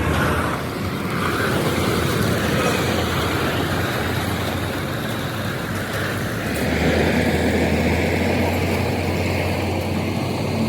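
A vehicle engine running steadily with a low hum. It picks up and gets louder about six and a half seconds in.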